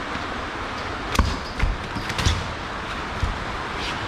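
A large freshly landed fish flopping on the deck, making about four heavy thumps at uneven intervals.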